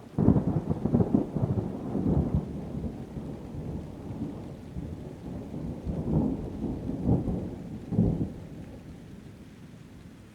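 A thunderclap cracks in sharply right at the start and rolls on in a low rumble, swelling again about six to eight seconds in, then dying away near the end. Rain hisses faintly underneath.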